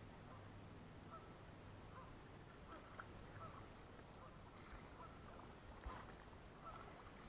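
Faint, scattered bird calls over a quiet background, with one soft knock about six seconds in.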